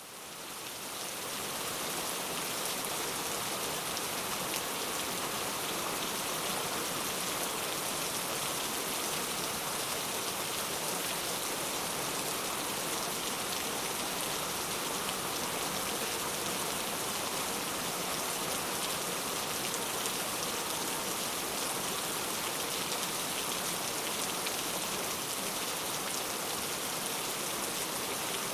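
Heavy rain falling steadily, an even hiss of countless drops with no thunder; it fades in over the first second or so.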